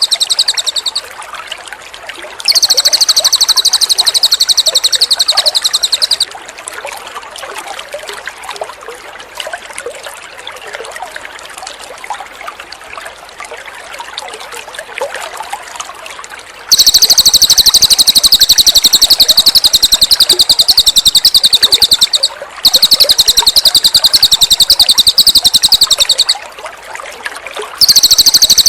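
A cililin bird singing loud, very rapid high-pitched trills in bouts of several seconds, with short breaks between them. Between the long bouts, water trickles and splashes softly.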